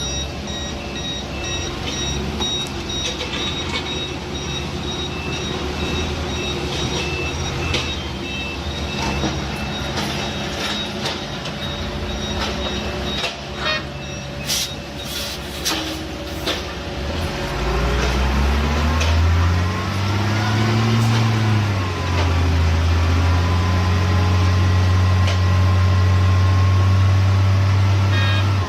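Heavy road-construction machinery engines running, with a reversing alarm beeping steadily through the first half. About eighteen seconds in, an engine revs up, then holds a loud, steady drone.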